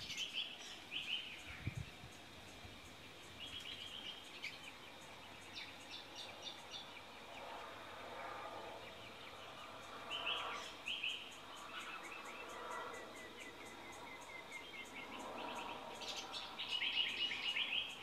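Wild birds calling: repeated short bursts of rapid high chirps, with a lower warbling call coming and going in between, and the loudest burst of chirping near the end.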